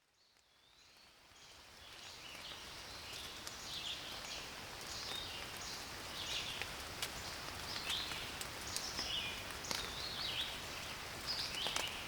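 Steady rain in a forest, fading in over the first two seconds, with a bird singing repeated short, high chirping phrases and a few sharp drip ticks.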